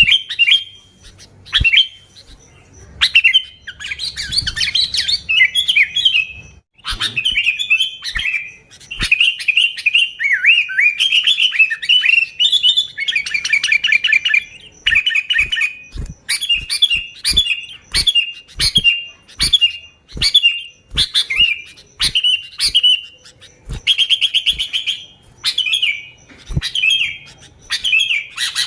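Sooty-headed bulbul (kutilang) singing vigorously: short, bright chirping phrases and fast bubbling trills, repeated one after another with hardly a pause. Sharp clicks fall between many of the phrases.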